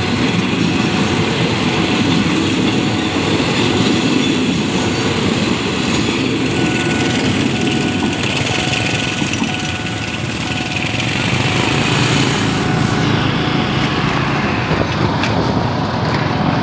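Passenger train carriages rolling past at speed, a loud, steady rush of wheels on rails.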